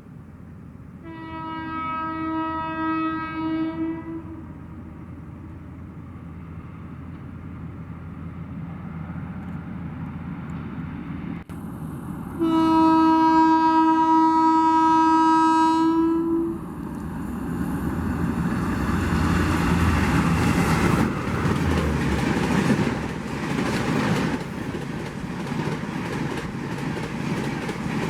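Express train's horn blown twice, each blast about three seconds long and the second louder and nearer. The train then runs through at speed, with wheel and rail clatter.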